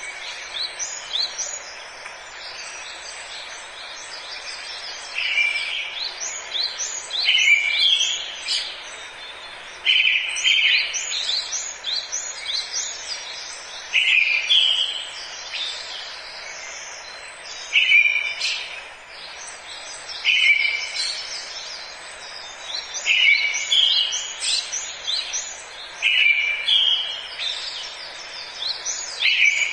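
Forest birdsong: several birds chirp over a steady background hiss, and one bird repeats a short, louder phrase every few seconds.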